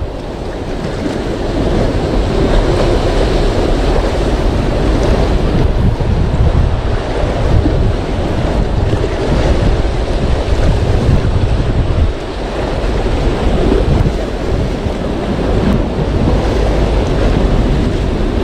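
Wind buffeting the microphone over the steady wash of sea waves, rising and falling unevenly.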